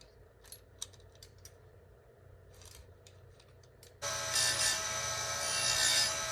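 Light metallic clicks and clinks of chain and grinder parts being handled. About four seconds in, an Oregon 410-120 bench chain grinder with a CBN wheel starts running, loud and steady, swelling as the wheel grinds a saw-chain cutter.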